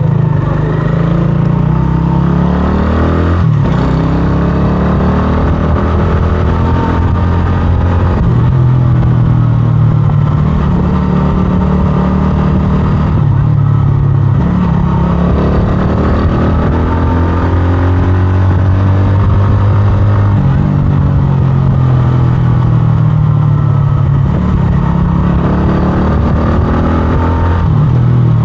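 125cc scrambler motorcycle engine running under way, its note climbing through the revs and dropping back several times as the rider shifts gears, with a brief break about three and a half seconds in.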